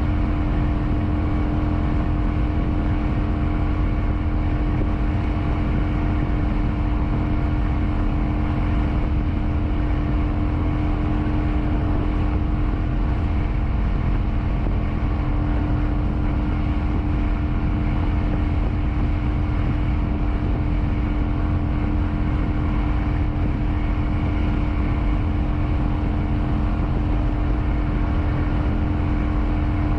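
Kawasaki Vulcan 900's V-twin engine running at a steady cruising speed, its note holding even, under a heavy rush of wind and road noise on the bike-mounted microphone.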